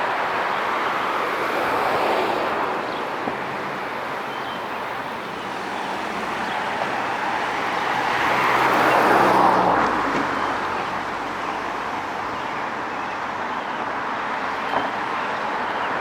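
Steady city street traffic, with one vehicle passing close a little past halfway: its engine hum and tyre noise swell to the loudest point, then fade away.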